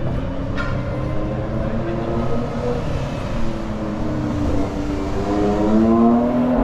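City street traffic, with a motor vehicle's engine pulling away and rising in pitch over the last couple of seconds. A sharp click comes about half a second in.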